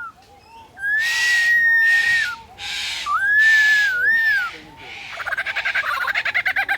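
Lyrebird singing mimicry: long held whistles with harsh rasping sounds over them, then, from about five seconds in, a fast run of repeated chirping notes. The bird is imitating the clicks and whirs of a DSLR camera.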